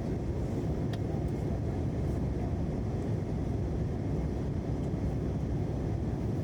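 Steady low rumble of cabin noise inside an Airbus A321 airliner, with a faint click about a second in.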